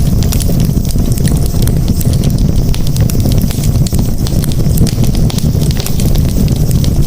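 Campfire burning, with dense crackling and frequent small pops over a steady low rumble.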